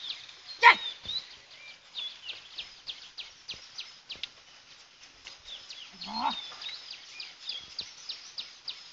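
High, short chirps repeating about four times a second, typical of a small bird calling. A sharp, loud call stands out about a second in, and a short rising voiced call comes around six seconds in.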